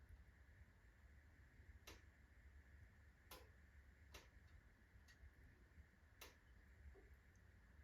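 Unsplit birch logs burning low in a fireplace, crackling with five or six sharp, irregularly spaced pops over a faint low hum.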